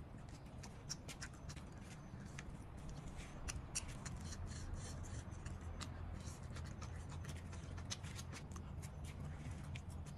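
Close-up eating sounds: chewing and wet lip-smacking, a quick irregular run of sharp mouth clicks, over a steady low hum that grows louder about four seconds in.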